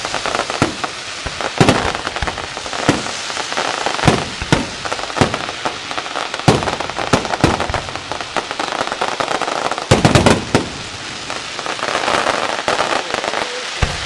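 Fireworks display: a continuous crackle of bursting shells, broken by loud bangs at irregular intervals and a quick volley of reports about ten seconds in.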